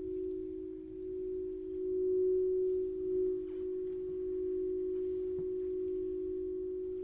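A steady, sustained ringing musical drone: two close pitches held together, beating slowly and swelling and easing in loudness, with a faint higher overtone.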